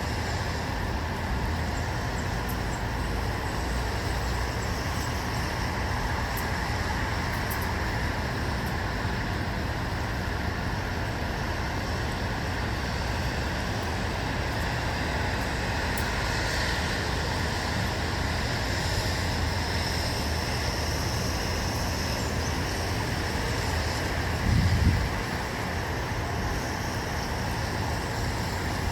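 Steady outdoor background hum of distant road traffic. Near the end, a brief louder low rumble rises and fades.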